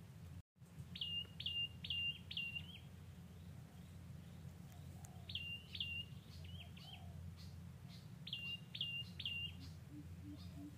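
A bird calling in runs of two to four short, identical high notes, each a sharp downward flick ending on a brief level tone, repeated several times, over a steady low background hum. The sound cuts out briefly about half a second in.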